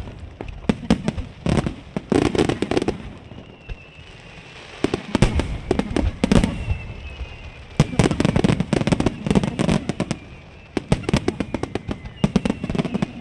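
Fireworks display: rapid volleys of aerial shell bursts, many sharp bangs in quick succession, easing off briefly about four seconds in and again near the end.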